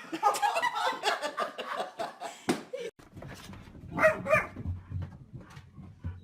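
A dog wearing boots clattering and scuffling, with many quick clicks, then after a sudden break a short bark about four seconds in.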